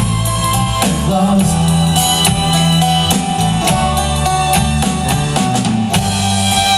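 A folk band playing live: guitar, drum kit and tambourine over a steady beat, with some singing.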